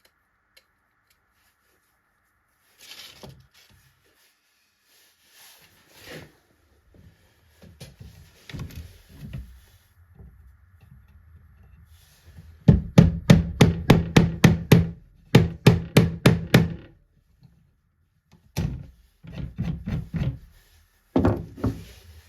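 Scattered thumps and rubbing on wood, then two quick runs of sharp knocks on wood, about four or five a second, in the second half, and a few more knocks near the end.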